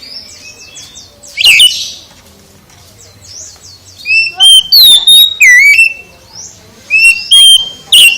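Oriental magpie-robin (kacer) singing loud, varied whistled phrases of rising and falling notes. There is one short burst about a second and a half in, then a longer run of phrases from about four seconds, with more near the end.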